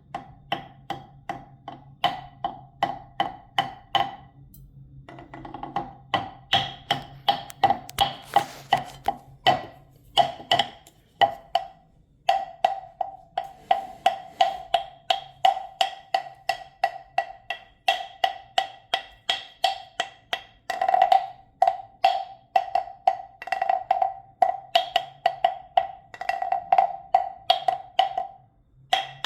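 A small pitched percussion instrument struck in a steady rhythm of about four hits a second. Each hit rings briefly, and the pattern pauses shortly about four seconds in and again near eleven seconds.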